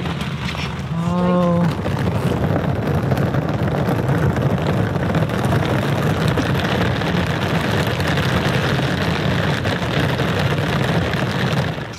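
Steady, heavy roar of torrential thunderstorm rain mixed with the rushing of a swollen river. A woman gives a short 'Oh' about a second in.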